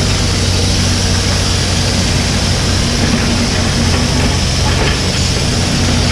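Mini excavator's diesel engine running steadily with a low hum.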